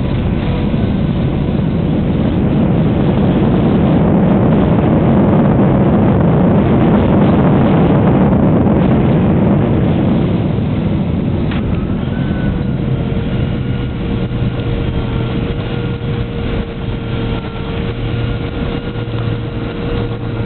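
Cabin noise of a Boeing 767-300ER slowing on the runway after landing: a loud rumble that swells and then eases off over the first ten seconds or so, after which a steady engine whine at low power comes through the quieter rumble.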